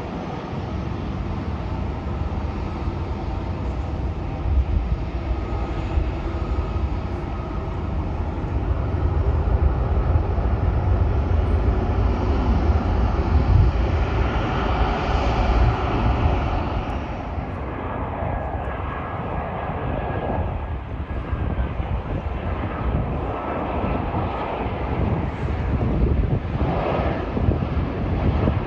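Jet airliner engines passing: a deep rumble with whining engine tones that builds to its loudest about halfway through, then fades.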